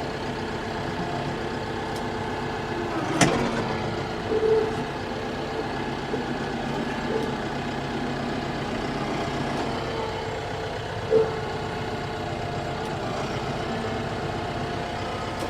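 TYM T654 tractor's diesel engine running steadily while the tractor works with its grapple, with a sharp crack about three seconds in and a couple of smaller knocks later.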